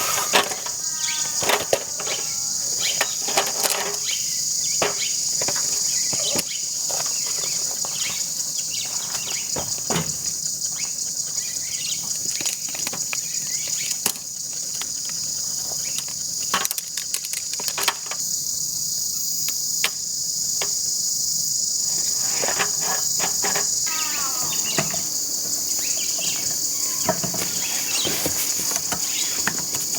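A steady, high-pitched chorus of insects, such as crickets, runs throughout. Scattered clicks and knocks sound over it, along with a few short chirps near the start and near the end.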